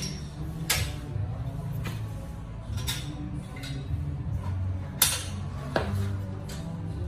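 Light metallic clicks and clinks from aluminium louvre blades on a linked-opening vent being worked, a few separate knocks with the sharpest about five seconds in, over quiet background music.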